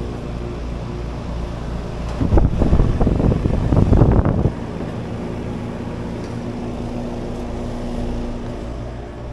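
Steady low mechanical hum with a loud, noisy rustling burst starting about two seconds in and lasting about two seconds.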